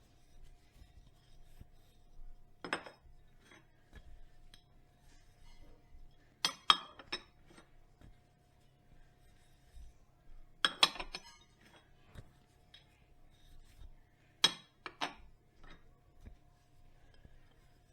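Dishes being washed by hand: glassware and cutlery clinking against each other in short clusters of knocks every few seconds, over a faint steady hum.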